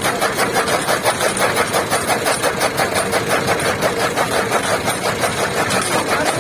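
Massey Ferguson 240 tractor's three-cylinder diesel engine running steadily while it drives a toka chaff cutter machine, with a fast, even pulsing rhythm.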